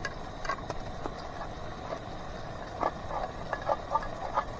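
Scattered small clicks and taps of food containers being opened by hand, with a quick run of several light clicks near the end.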